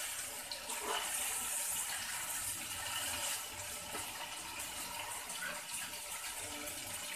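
Chicken liver masala frying in oil in a wok, a steady sizzling hiss, with a few soft touches of a slotted spoon stirring it. This is the bhuna stage: the cooking water has boiled off and the liver is tender, so it now fries in the oil.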